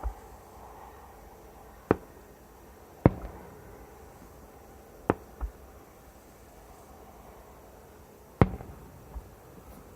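Fireworks bursting overhead: about seven separate sharp bangs at uneven gaps of one to three seconds, the loudest about three and eight and a half seconds in, each trailing off in a brief echo.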